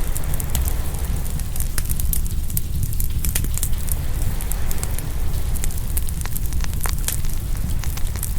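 Open wood fire crackling, with frequent sharp pops scattered irregularly, over a steady low rumble of ocean surf.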